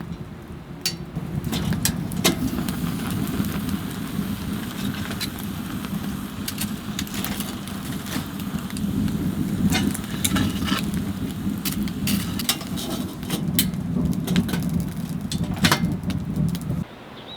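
Wood fire burning in a wood stove: a steady low rush with irregular sharp crackles and pops. It cuts off suddenly just before the end.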